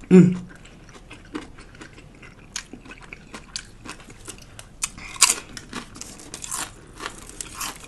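Close-miked chewing and crunching of a Jimmy John's Unwich, an Italian sub wrapped in lettuce instead of bread: crisp, wet lettuce crunches and mouth clicks at an irregular pace, the sharpest crunch a little past the middle.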